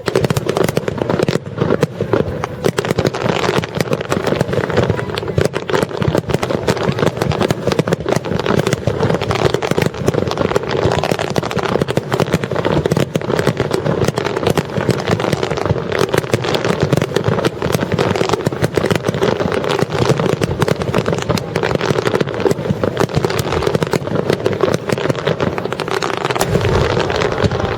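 Rapid-fire starmine fireworks barrage: shells bursting continuously in dense succession with crackling, easing off near the end.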